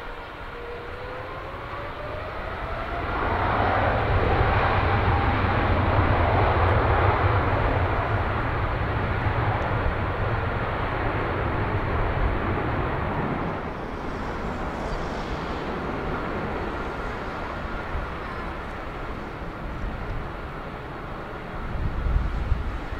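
Boeing 767-300ER jet engines spooling up with a rising whine, building into a loud roar that holds for several seconds, then slowly fades. A brief low rumble comes near the end.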